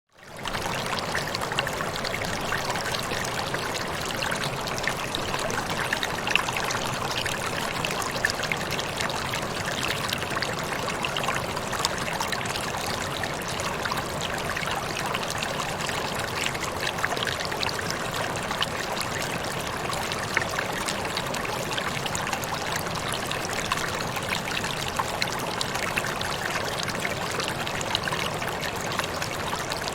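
Water falling and splashing in a steady rush, with small splashes flecking through it. It fades in over the first half second, then holds even.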